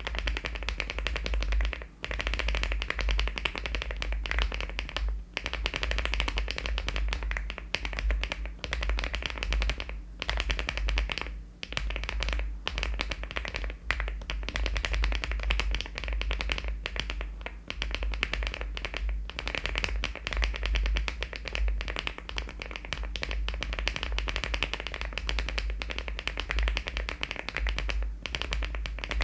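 Fast continuous typing on a LEOBOG Hi75 aluminium mechanical keyboard with HMX switches and Cherry-profile keycaps, the keystrokes running together into a steady clatter with a few brief pauses.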